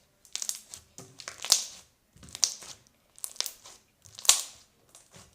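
A soft slime with small beads mixed in, squeezed and pressed by hand, making crackly, crunchy squishes about once a second, five times.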